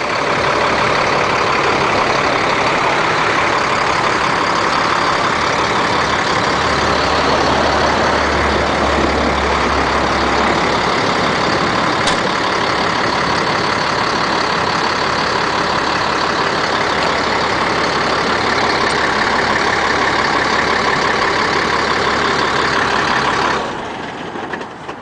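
Cat 3126 diesel engine of a service truck running steadily. The low hum swells for a few seconds, and the whole sound drops off sharply near the end.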